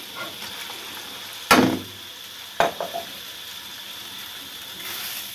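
Raw chicken breast cubes hitting hot oil and onions in a wok and sizzling steadily, with two sharp knocks, the first the loudest, about a second and a half and two and a half seconds in.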